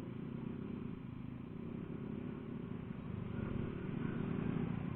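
Yamaha Aerox 155 scooter's single-cylinder engine running steadily under way, picked up by a helmet-mounted microphone; it grows a little louder about three seconds in.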